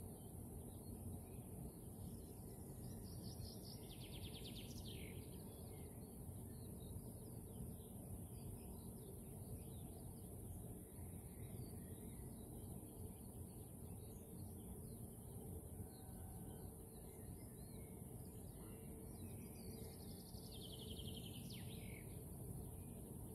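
A songbird singing two short trilled phrases, about three seconds in and again near the end, over a steady low rumble and a steady high hiss.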